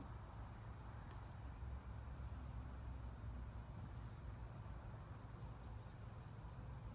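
Faint insect chirping, one short high chirp about once a second at an even pace, over a low steady rumble.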